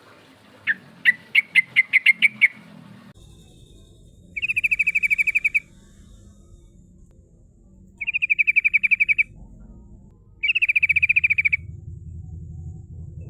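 Yellow-vented bulbul (trucukan) calling. A quickening run of sharp, chirpy notes comes first, then three fast rattling trills of about a second each, a few seconds apart.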